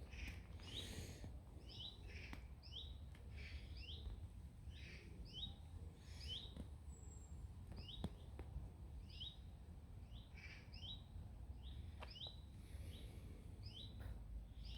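A songbird calling: a long, faint run of short rising chirps, about two a second.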